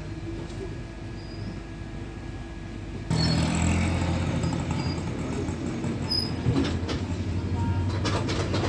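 Train running on the line with a steady noise and low hum. About three seconds in it abruptly becomes louder and harsher, and near the end there is a run of short clicks.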